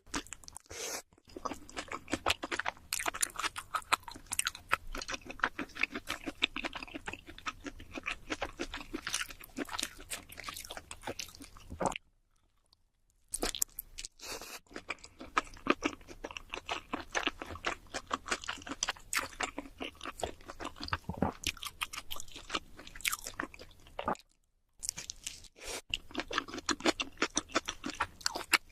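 Close-miked chewing and crunching of cheese seafood pizza: dense, rapid wet crackles and clicks of a mouth eating, stopping twice for about a second of silence, around twelve seconds in and again around twenty-four seconds in.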